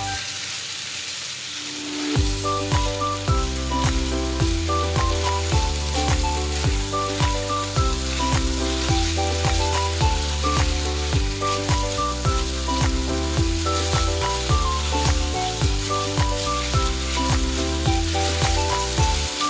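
Chicken thigh pieces sizzling as they fry in a pan and are stirred. About two seconds in, background music with a bass line and a steady beat comes in and stays louder than the sizzle.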